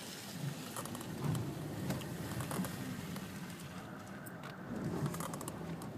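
The 2007 Volkswagen Jetta's 2.5-litre five-cylinder engine running at low speed, heard from inside the cabin, its low hum wavering a little in pitch. Under it, a steady hiss of tyres on a snowy road, with a few faint clicks.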